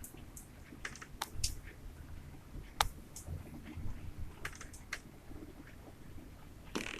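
Irregular light clicks and taps, with a sharper click about three seconds in, over a low rumble.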